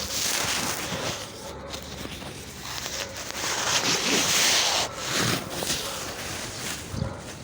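Irregular rustling and rubbing noise that swells and fades, loudest about four seconds in.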